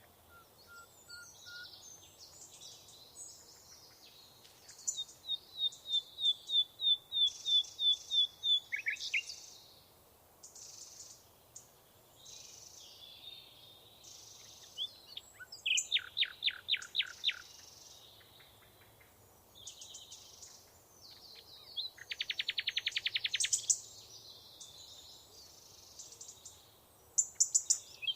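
Songbirds singing in a mixed chorus: one bird repeats a loud clear note about a dozen times, and later come fast rattling trills, with softer chirps from other birds in between.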